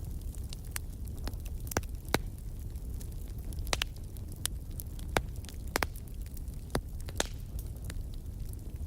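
Wood fire in a fireplace crackling: irregular sharp pops and snaps, several of them louder, over a steady low rumble of the burning fire.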